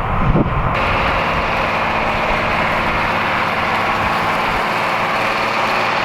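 Steady drone of a large diesel farm tractor engine running while plowing, with wind rumble on the microphone in the first half-second.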